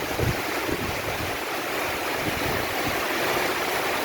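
Heavy tropical downpour: a steady, dense rushing hiss of rain. A few low buffets of wind hit the microphone in the first second.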